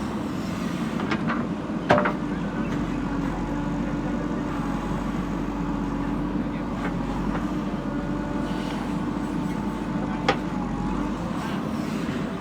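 JCB backhoe loader's diesel engine running steadily, with a few sharp metallic knocks, the loudest about two seconds in and another near the end.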